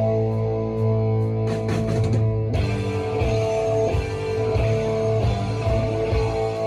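Rock music led by electric guitar, with held chords over a steady bass and no singing.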